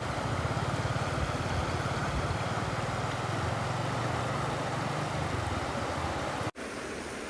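A steady low motor hum with a fine, even pulse over a rushing hiss, fading out about five and a half seconds in. After a sudden cut near the end, only a steady rushing hiss like flowing water remains.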